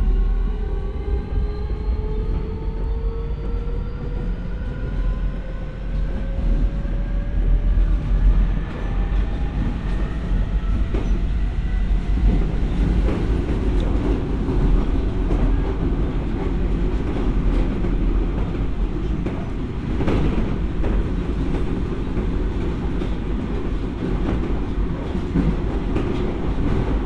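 Keio 1000 series electric train heard from inside the car as it accelerates. The traction motor whine rises steadily in pitch and fades out about twelve seconds in, leaving the steady rumble of wheels on rail with clicks over the rail joints.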